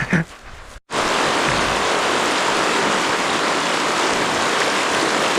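Steady rushing of a river's rapids, starting suddenly about a second in after a brief short sound.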